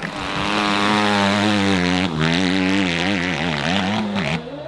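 Dirt bike engine running loud and close. It holds a steady note for about two seconds, then revs up and down in quick surges several times, and cuts back sharply near the end.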